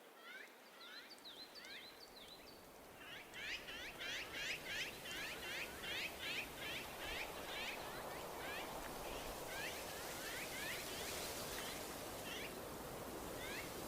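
Common kingfisher calling: a rapid series of sharp, down-slurred whistled notes, about three a second, densest a few seconds in and thinning out toward the end, over a steady rushing background noise.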